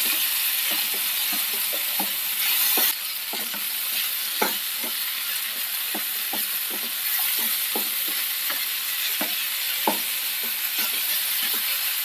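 Jackfruit seed stir-fry sizzling in a frying pan as a wooden spatula stirs it, the strokes scraping and tapping the pan about twice a second. This is the mixing stage, after the boiled seeds have gone in on top of shallots and dried red chillies.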